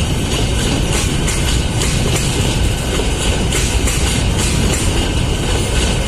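A freight train rolling by, making a loud, steady rumble of steel wheels on rail.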